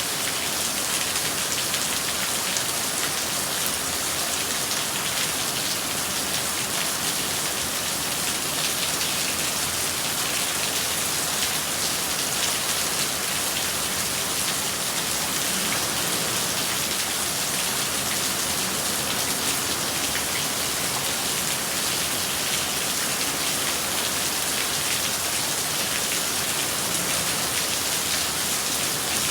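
Steady rain falling, a dense even hiss of drops with fine pattering on a surface.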